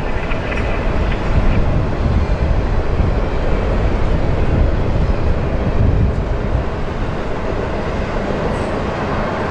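Double-stack intermodal freight cars rolling across a steel girder railway bridge: a loud, steady rumble of wheels on rail.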